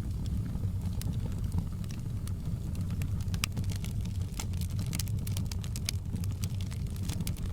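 Wood fire crackling, with many sharp pops and snaps, most frequent in the second half, over a steady low rumble.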